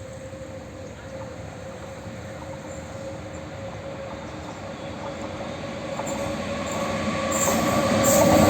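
Indian Railways train approaching, its rumble and a steady hum growing steadily louder; the rail and wheel noise builds up strongly near the end.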